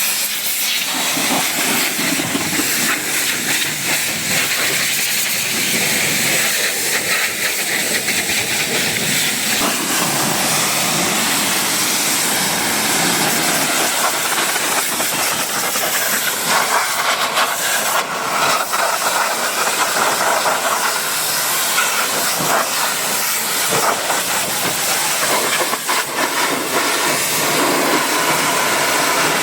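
High-pressure washer jet spraying water onto a car: a loud, steady hiss whose tone shifts as the spray moves.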